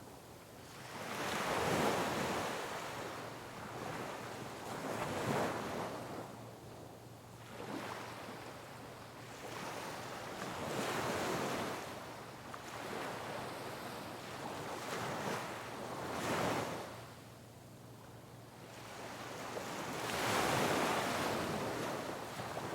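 Sea waves breaking on rocks, surging and falling back in repeated swells; the biggest breaks come about two seconds in, near the middle and near the end.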